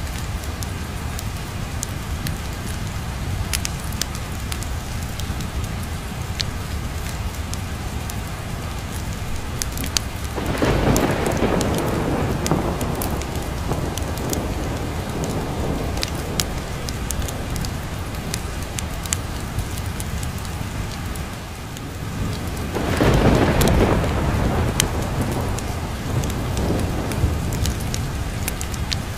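Steady rain with two rolls of thunder, one about ten seconds in and another a little past twenty seconds, over scattered sharp crackles of a wood fire.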